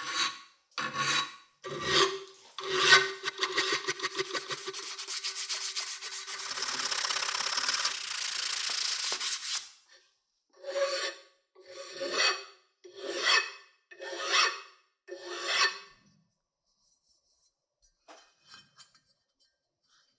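Hand abrading strokes on a part, scraping with a faint metallic ring. There are four slow strokes about a second apart, then about six seconds of fast continuous rasping, then five more slow strokes. A few faint light taps come near the end.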